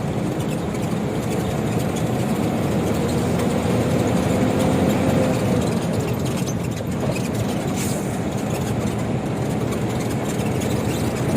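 Truck's diesel engine running on homemade biodiesel made from used cooking oil, a steady drone heard from inside the cab. A faint whine comes and goes a few seconds in.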